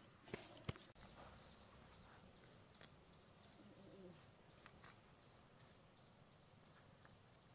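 Near silence: faint, steady high-pitched insect chirring, with two sharp clicks within the first second.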